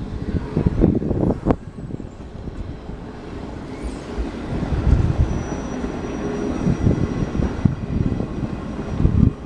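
Passenger coaches of a departing train rolling slowly past: a low rumble of wheels on rails, with a couple of sharp knocks in the first two seconds. A faint thin high whine runs through the second half.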